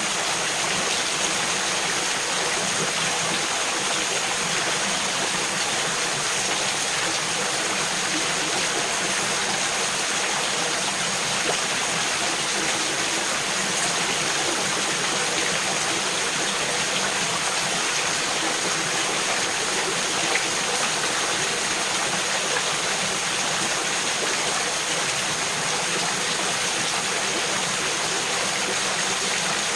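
Mountain creek babbling over rocks and small waterfalls: a steady rush of flowing water with no change in level.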